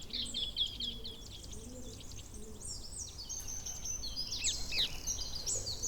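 Parakeets calling: many short, high, shrill chirps and screeches, sparse at first and growing into a denser, overlapping chatter from about four seconds in.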